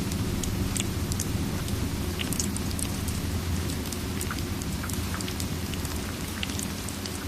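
Ambience mix of steady rain and a crackling fireplace: a constant low rumble under a hiss, with scattered sharp crackles and drips.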